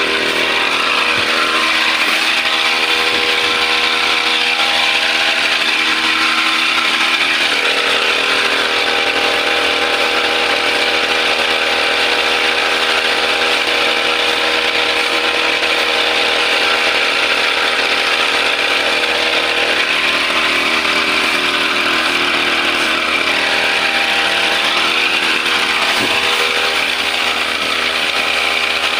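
Brush cutter's small two-stroke engine running steadily at high speed.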